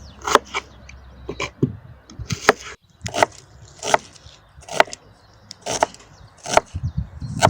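A blade chopping against wood in a dozen or so sharp, unevenly spaced strokes, with a brief break about three seconds in.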